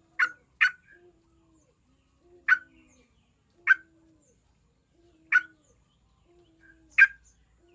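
Yellow-vented bulbul giving short, sharp chirping calls, six of them spaced irregularly, two close together at the start. Faint low cooing repeats about once a second beneath them, with a thin steady high whine.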